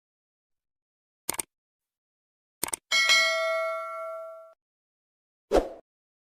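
Short clicks about 1.4 s apart, then a bright bell ding that rings for about a second and a half and cuts off sharply, then a single dull thump near the end.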